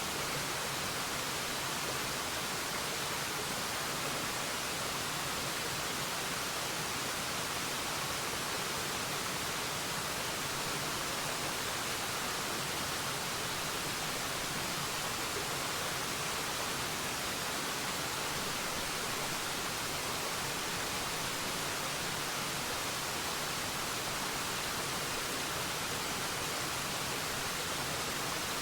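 Waterfall: a steady, unbroken rush of falling water, bright and hissy, that does not change.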